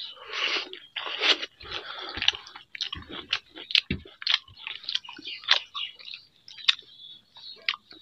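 Close-up chewing and crunching of a mouthful of fried vegetable side dish, with irregular wet smacks and clicks from the mouth. Fingers squish through water-soaked rice (pakhala bhata) on a metal plate.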